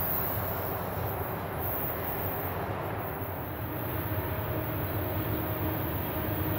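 Freight cars rolling away on the rails as the end of a train recedes. About three seconds in, a diesel freight locomotive approaching at the head of an intermodal train, its engine giving a steady hum over the rolling noise.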